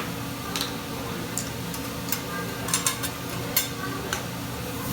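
Food sizzling on a hibachi griddle, a steady hiss, with sharp metal clicks about once a second.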